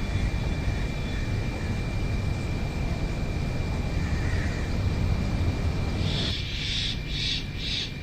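A steady low rumble under a thin, steady high tone, and near the end a bird calling about three times in short bursts.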